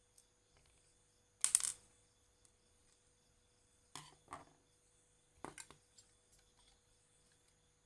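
Small hard objects being handled during an amplifier repair, making three short bursts of clicks and clatter. The loudest comes about one and a half seconds in, and the others come around four and five and a half seconds, over a faint steady hum.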